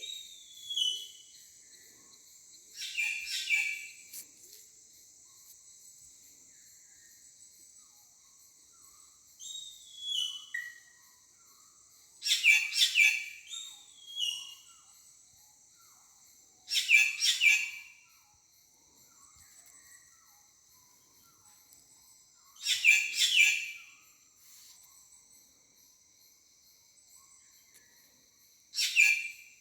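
A bird calling repeatedly in short, high-pitched bursts a few seconds apart, some ending in short falling notes, over a steady high insect drone.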